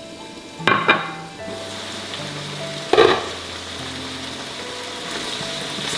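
Shiitake mushrooms and chicken sizzling in a frying pan, with a sharp utensil clink about a second in and another about three seconds in, over background music with held notes.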